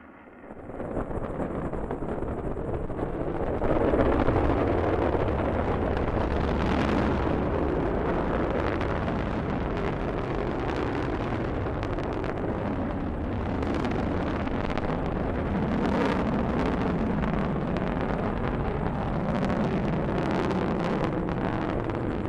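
Delta II rocket launching: a steady deep rumble with crackling from its engines. It comes in about half a second in and grows louder about four seconds in.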